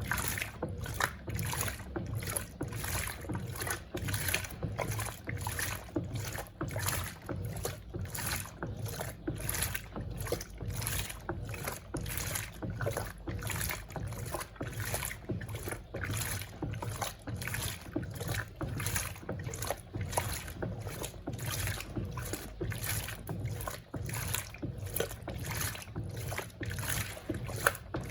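Electrolux Turbo Compacta LTC07 top-load washing machine agitating: the agitator swings back and forth through the water with a regular sloshing, about two strokes a second, over a low motor hum.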